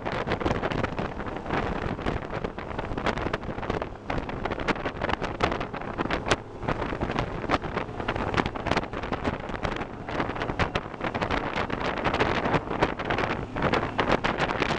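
A fire engine's engine running, heavily buffeted by wind on the microphone, with a dense rumble and crackling gusts throughout. The truck is a 1967 Seagrave pumper powered by a Detroit Diesel 6V53 two-stroke V6.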